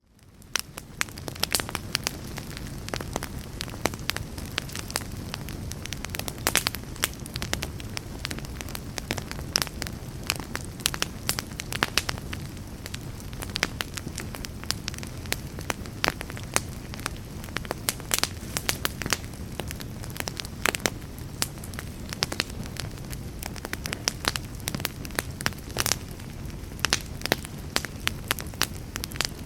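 Campfire burning, with frequent irregular sharp crackles and pops over a steady low rush of flame. The sound drops out for a moment at the very start and fades back in within about a second.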